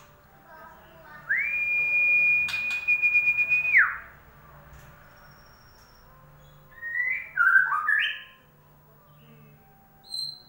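White-rumped shama (murai batu) song used as a lure recording: one long steady whistled note held for about two and a half seconds, then a short run of quick varied whistled notes a few seconds later and a brief high note near the end.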